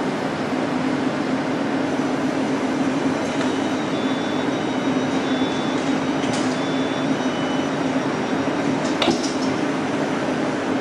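A train running steadily: a constant rumble with a steady low hum, a few brief faint high-pitched squeals in the middle, and a sharp click about nine seconds in.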